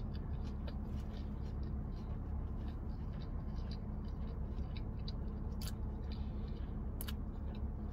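A person chewing fast food, with scattered faint clicks and a couple of sharper crunches about five and a half and seven seconds in, over a steady low hum.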